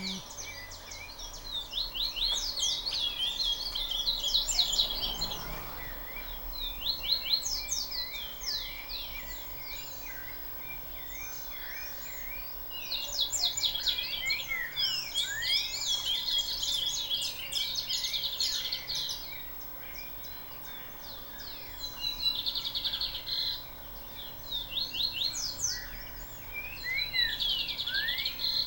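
Several small birds chirping and twittering together, a dense chatter of quick, high, downward-sweeping notes that swells and eases in waves, with a lull about two-thirds of the way through.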